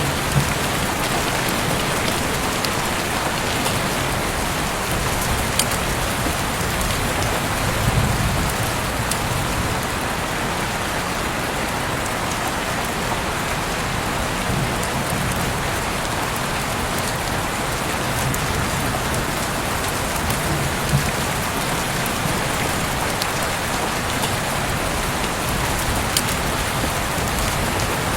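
Heavy rain falling steadily, a dense even hiss with scattered sharp drips landing close by.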